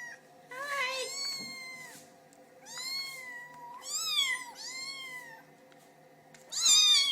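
Kitten mewing, about five high-pitched cries in a row, each rising and falling in pitch; the last, near the end, is the loudest.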